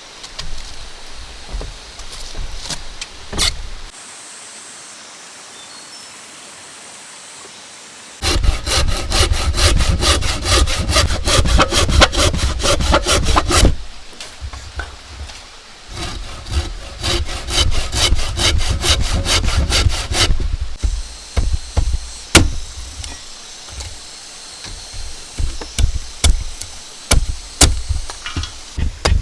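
A saw cutting through bamboo in two bouts of quick, even back-and-forth strokes, separated by a short pause, with scattered knocks of bamboo being handled before and after.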